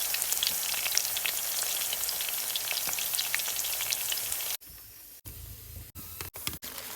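Food sizzling and crackling as it fries in a hot pan, a dense hiss full of small pops, which cuts off abruptly about four and a half seconds in. It is followed by a few short, quieter snippets, each ending in a sudden cut.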